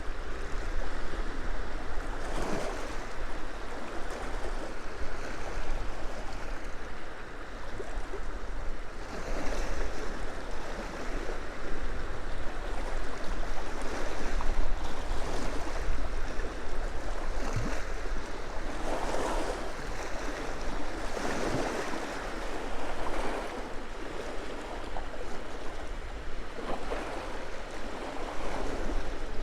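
Small waves on a freshwater loch lapping and washing onto the shore, a louder wash every few seconds, with wind rumbling on the microphone.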